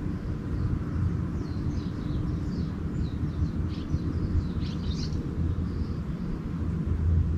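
Small birds chirping in a quick series of short high notes for a few seconds, over a steady low rumble.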